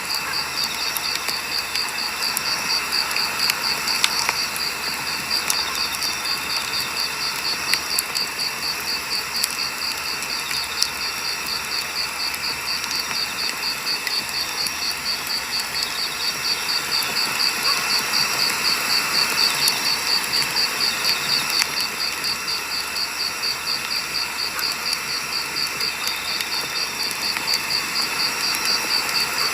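Firewood burning with a steady hiss and occasional sharp crackles and pops. A high, evenly pulsing insect chirp runs steadily underneath.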